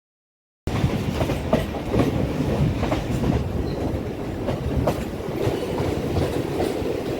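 Train running on the track: a steady rumble with irregular clacks of the wheels over the rail joints, cutting in abruptly under a second in.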